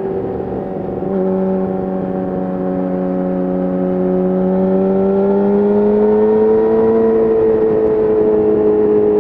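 2017 Yamaha YZF-R6's inline-four engine through an Akrapovic exhaust, heard onboard while riding. The note breaks briefly about a second in, then its pitch climbs slowly as the bike gathers speed, levelling off and easing slightly near the end.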